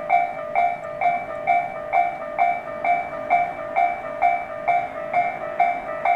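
Japanese railway level-crossing warning bell ringing steadily, a little over two strokes a second, as a train approaches or passes.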